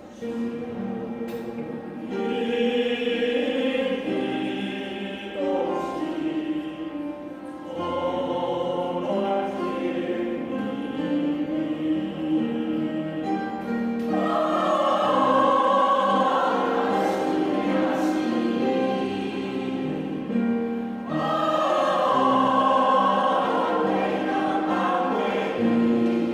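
A choir singing in sustained, slow phrases, swelling louder about midway through and again near the end.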